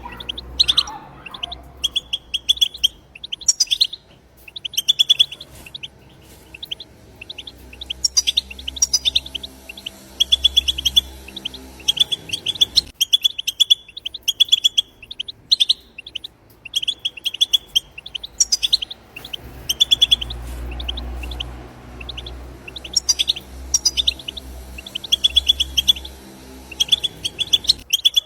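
European goldfinch singing batbata: rapid chattering trains of short, high, repeated notes coming in bursts every second or two, with brief pauses between.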